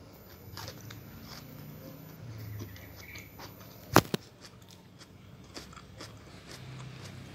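Mouth-closed chewing of crisp Korean oriental melon (chamoe), with small crunches, and one sharp loud click about four seconds in.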